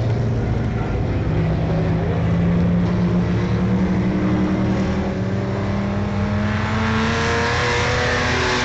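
Engines of vintage race cars running laps, several droning at once at different pitches; one climbs in pitch about a second in. A louder rush of noise builds from about six and a half seconds as cars come closer.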